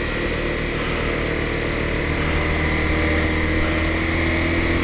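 Honda dual-sport motorcycle's single-cylinder engine running under way, its pitch rising slowly as the bike gathers speed.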